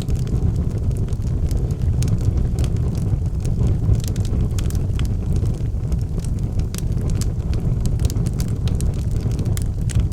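Wood fire burning in a fireplace: a steady low rumble with frequent sharp crackles and pops of the burning logs.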